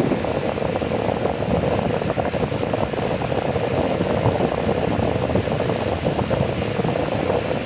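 Tron AT 50 cm wall fan running steadily, a continuous rush of air from its blades.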